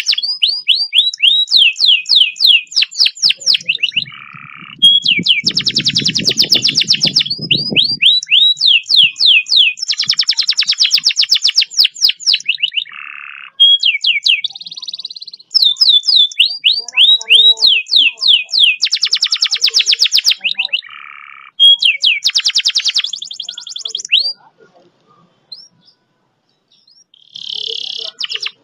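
Domestic canary singing long, fast rolls: phrase after phrase of rapid repeated down-sweeping notes and dense trills, with short pauses between them. The song mostly stops about three-quarters of the way through and resumes briefly near the end.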